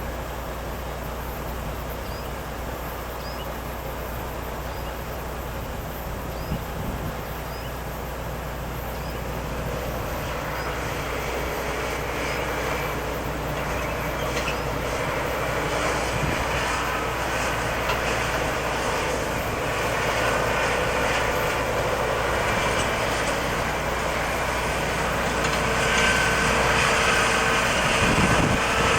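Diesel engine of a Scania logging truck loaded with logs, running steadily and growing louder toward the end.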